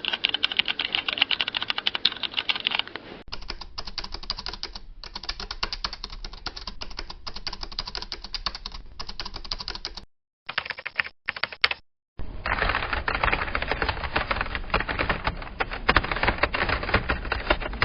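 Rapid typing on a computer keyboard, a fast dense run of key clicks. It comes as several separate typing recordings one after another, with short silent breaks about ten and twelve seconds in.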